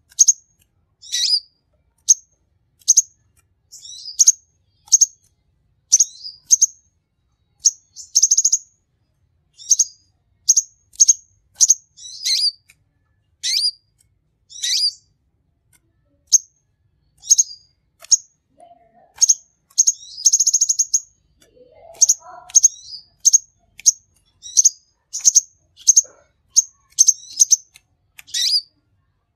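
A king konin sunbird singing: rapid high chirps about twice a second, broken twice by a longer buzzing trill.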